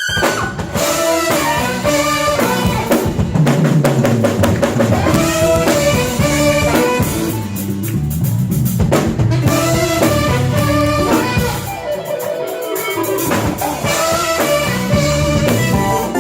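Live jazz band playing a smooth-jazz groove: drum kit and bass under keyboards and guitar, with a saxophone-led melody.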